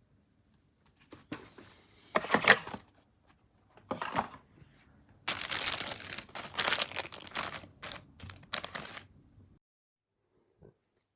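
Bursts of crinkling and rustling handling noise, as of something crinkly being crumpled and moved about: one sharp burst about two and a half seconds in, then a longer stretch of rustling from about five to nine seconds, and a faint knock near the end.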